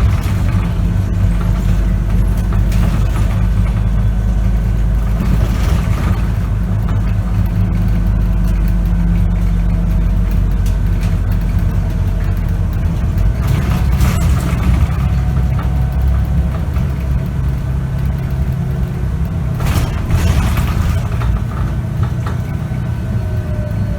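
Scania K94UB bus's diesel engine and ZF automatic gearbox heard from inside the bus while under way, a steady low drone whose note changes a little past halfway. Three short noisy swells rise over it along the way.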